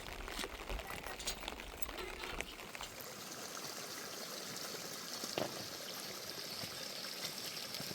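Running, trickling water with scattered small clicks and splashes; a low rumble drops away about two and a half seconds in.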